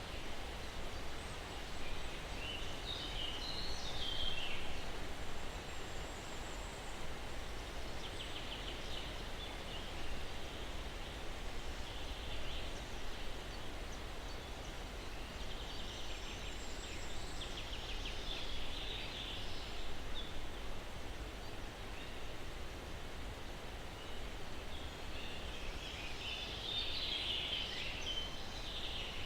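Steady breeze hissing through pine trees, with small birds chirping and twittering in short bouts every few seconds.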